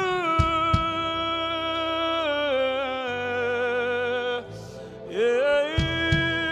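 Worship singing: a solo voice holds long, drawn-out notes with vibrato and slow slides in pitch over a sustained keyboard-style accompaniment. It pauses for a breath a little after four seconds in, and there are a few light drum hits near the start and near the end.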